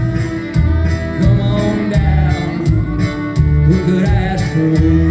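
Acoustic country song playing: plucked and strummed guitar over bass notes that change about once a second.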